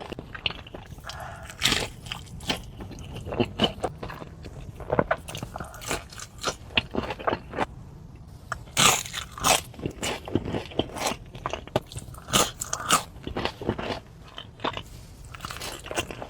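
Close-miked crunchy bites and chewing of a crispy breaded hot chicken sandwich, with many irregular sharp crunches.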